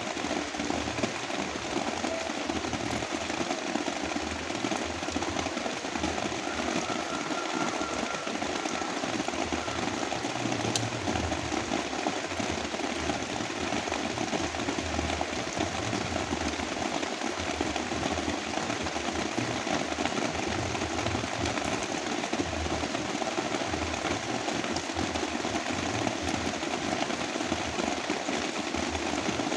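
Heavy rain falling steadily, a dense, even hiss of drops that keeps the same level throughout.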